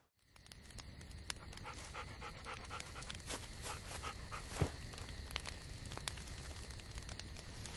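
Dog panting quickly and rhythmically, with scattered small clicks and snaps and one louder knock around the middle.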